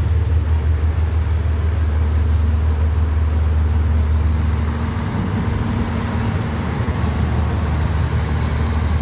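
Large diesel engine running steadily with a deep, even hum, over a noisy hiss.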